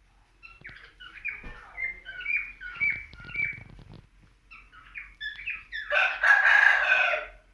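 A bird calling: a quick series of short chirps, a pause, a few more, then one longer, loud, harsh call near the end.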